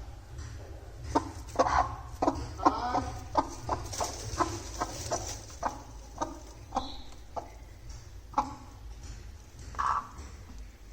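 Broody hen clucking: a run of short, repeated clucks starting about a second in, close together at first and more spaced out later, over a steady low rumble.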